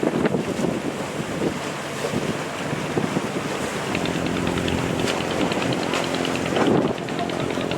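Wind buffeting the microphone over sea and wave noise on a boat. About halfway in, a steady machine hum with rapid regular ticking joins it.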